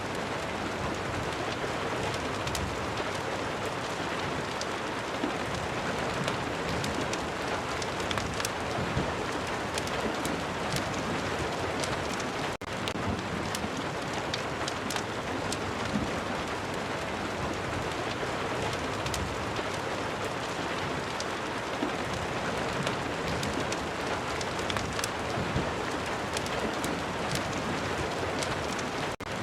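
Rain and fireplace ambience: a steady hiss of rain with many scattered sharp crackles and ticks. The sound drops out for an instant twice, once near the middle and once near the end.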